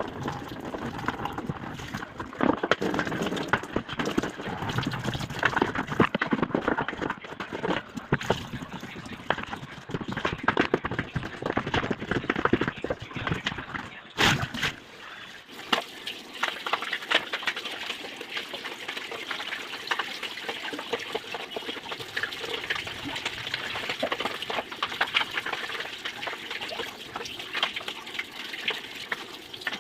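Water splashing and running in a washing machine tub being cleaned, with many small knocks and clicks throughout.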